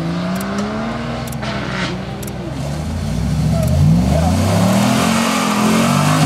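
Jeep Wrangler engine revving as it drives through a deep mud rut, its pitch rising and falling, louder from about four seconds in. A few sharp clicks sound in the first couple of seconds.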